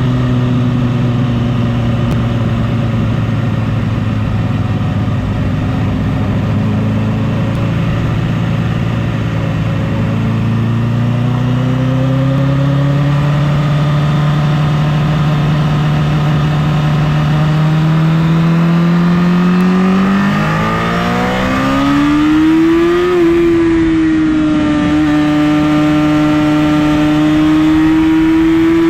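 Honda CBR1000RR's inline-four engine under way, its pitch holding low, creeping upward, then climbing sharply about two-thirds of the way in before holding a higher, steady note as the bike accelerates. A steady rush of wind noise runs underneath.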